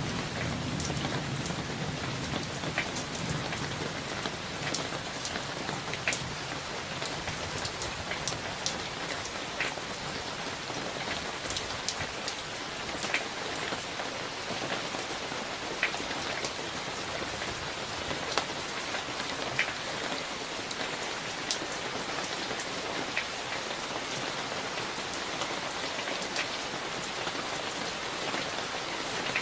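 Steady rain from a summer thunderstorm, with many sharp individual drops ticking close by. The last of a low thunder rumble dies away in the first few seconds.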